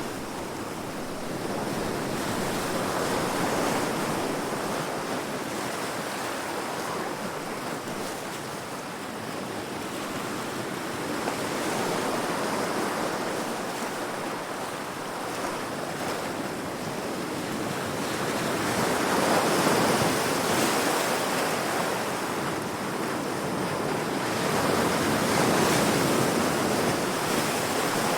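Heavy sea waves breaking against rocks: a continuous rush of surf that swells and eases every several seconds, with the strongest swells near the end.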